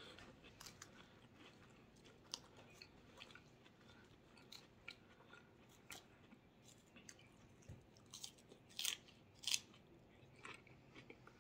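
Quiet, close-miked chewing of crisp salad with scattered soft clicks of a fork picking at the salad bowl; two louder crunchy clicks come about two seconds before the end.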